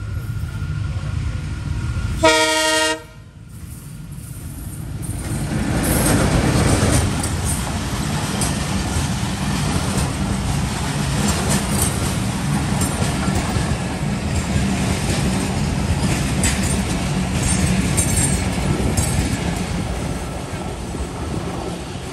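A WDM-3A diesel locomotive sounds one short horn blast, then the locomotive and its intercity coaches rumble past close by, wheels clacking over the rail joints, the noise slowly fading near the end.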